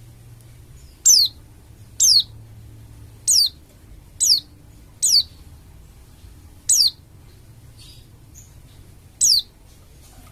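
Pleci dakun Bali white-eye calling: seven short, sharp notes, each sweeping down in pitch, spaced unevenly about a second apart with a longer gap near the end.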